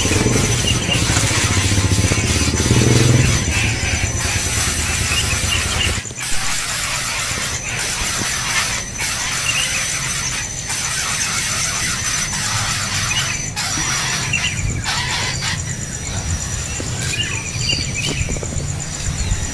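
Nestling birds giving begging calls in short clusters every few seconds, over a steady high insect drone.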